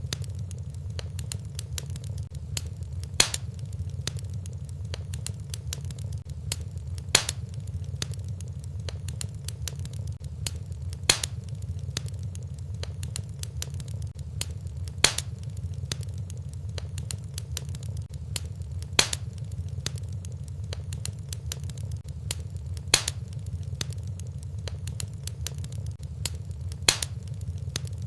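Wood fire burning in a fireplace, with a steady low rumble, constant small crackles and a loud sharp pop about every four seconds.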